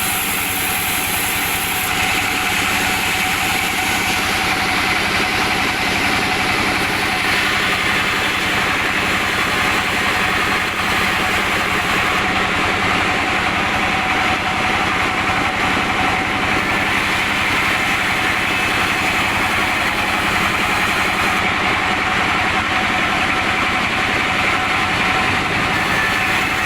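Sawmill machinery running steadily while sawing albasia logs into 2 cm boards, an even mechanical drone with a strong hiss.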